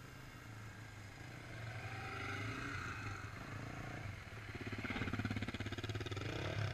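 Off-road motorcycle engine running, growing louder, then revving up with a rising pitch over the last two seconds or so.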